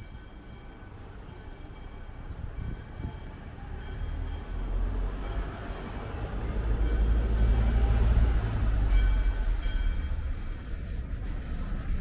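A heavy motor vehicle passing close by: a deep engine rumble that builds over several seconds, is loudest about two-thirds of the way through, then eases off.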